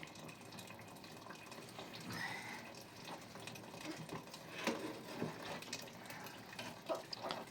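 Faint running or pouring water, a steady low hiss, with a few light knocks and clicks about five and seven seconds in.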